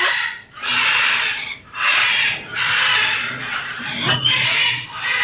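Eclectus parrot giving harsh, raspy calls, one about every second, with a short sharper sound about four seconds in.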